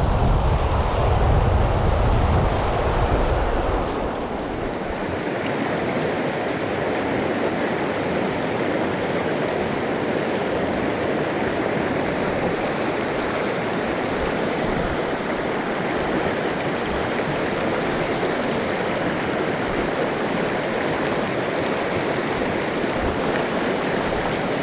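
Mountain stream rushing steadily. Wind buffets the microphone for the first four seconds or so, then dies away.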